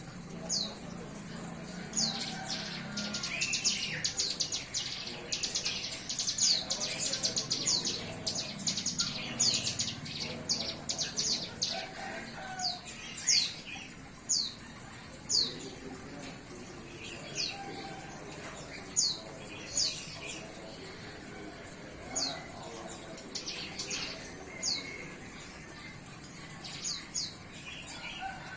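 A young ciblek gunung, a prinia just weaned from hand-feeding, beginning to sing with short, high chirps that each drop sharply in pitch. The chirps come in rapid runs for the first dozen seconds, then thin out to about one a second.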